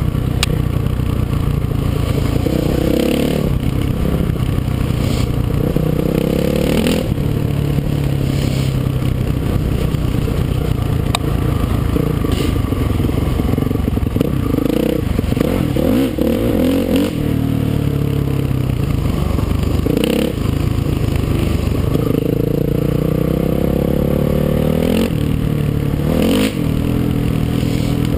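Dual-sport motorcycle engine, heard from the rider's helmet, revving up and easing off again and again as the bike is ridden along a trail, with several long rising pitches as it pulls through the gears.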